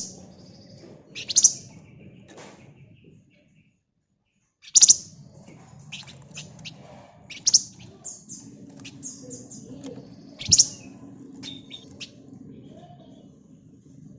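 Flamboyan songbird calling: loud, sharp, high chirps every two or three seconds, with quick runs of thinner twittering between them. The sound drops out to dead silence for about a second and a half partway through.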